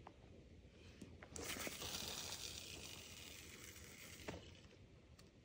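A fishing cast with a spinning reel: fishing line hisses off the spool, starting suddenly and fading over about three seconds, followed by a single sharp click near the end.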